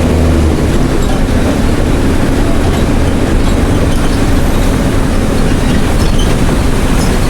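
Mercedes-Benz OH1420 bus's OM366LA six-cylinder turbo diesel running loud through an open, straight-through exhaust. About half a second in, a steady low drone gives way to a rougher, uneven rumble that carries on.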